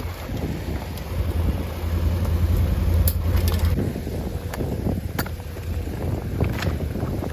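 Strong blizzard wind buffeting the microphone as a deep, steady rumble, heaviest in the first half, with a handful of sharp clicks or knocks in the second half.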